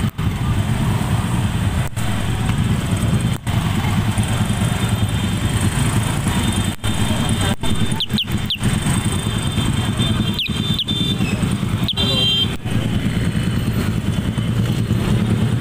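Several motorcycle and scooter engines idling together in a stopped queue, a steady low hum, with a few short high chirps about halfway through.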